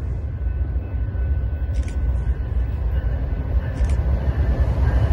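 Diesel-electric freight locomotives approaching on the line, a low rumble that grows steadily louder as they near.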